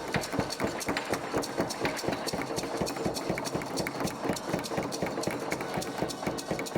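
Rapid, irregular knocking and clicking, many strokes a second.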